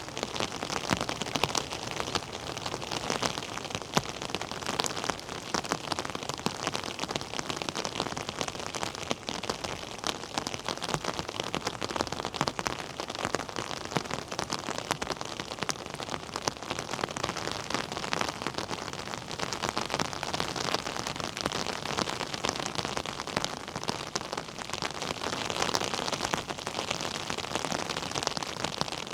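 Steady heavy rain, a dense patter of countless drops striking a surface.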